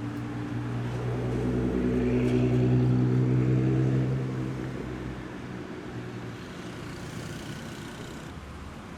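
A car engine running at a steady pitch as it goes past, growing louder to a peak about three seconds in and then fading away.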